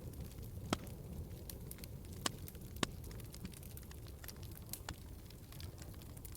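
Wood fire in a fireplace crackling: a steady low rumble of burning with scattered sharp pops, three of them louder in the first three seconds.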